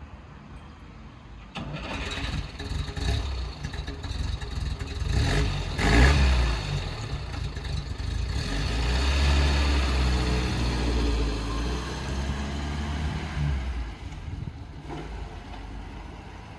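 1952 Mercedes-Benz 170S's four-cylinder side-valve engine running, with a brief rev about six seconds in, then running steadily before dropping away near the end.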